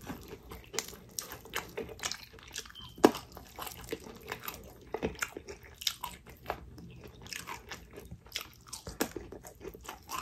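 Close-miked chewing of crispy fried chicken: irregular crunches and crackles of the breading between bites, several a second.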